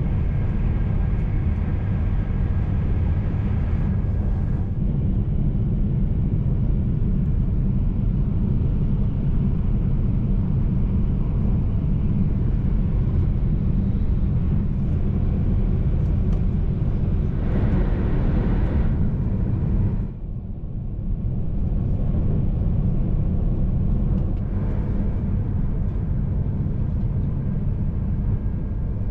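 E3-series Shinkansen train running at speed, a steady low rumble with track and air noise, heard from inside a passenger car. A brief rise in rushing noise comes past the middle, followed by a short dip in level.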